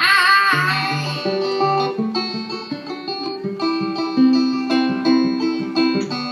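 Live band playing an instrumental passage between vocal lines: plucked string notes over a bass line, with the singer's held, wavering note dying away in the first moment.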